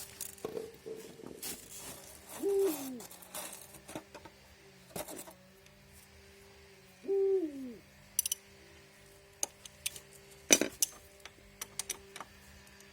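A bird hooting twice, each a short hoot that drops in pitch at the end, about five seconds apart. Scattered light metallic clicks and clinks and a steady low hum run underneath.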